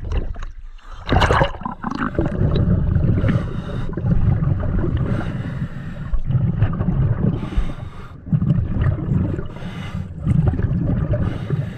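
Water gurgling and rumbling over an underwater microphone, swelling and easing every two seconds or so, with a brief splash about a second in.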